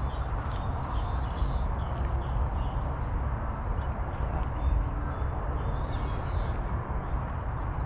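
Birds chirping a few times over a steady low rumble and general outdoor noise.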